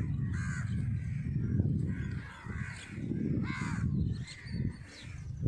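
A bird calling outdoors several times in short arched calls, the clearest about half a second and three and a half seconds in, over a continuous low rumble.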